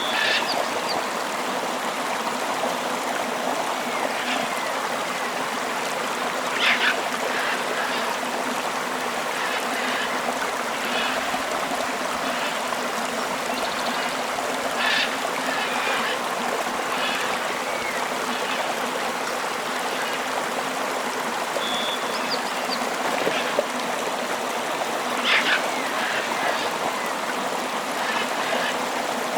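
A river flowing steadily, with short bird chirps every several seconds over the water sound.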